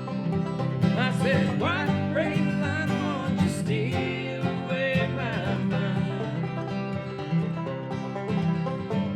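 Acoustic bluegrass instrumental break on plucked strings, banjo and guitar, with a steady low accompaniment and a lead line that bends in pitch in the first half.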